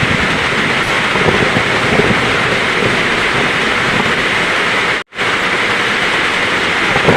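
Heavy rain pouring in a steady, dense hiss. The sound cuts out completely for a split second about five seconds in.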